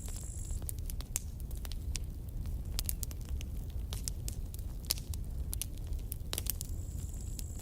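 Campfire crackling: irregular sharp pops and snaps of burning wood over a low steady rumble. A thin, high, steady hiss sounds at the start and comes back near the end.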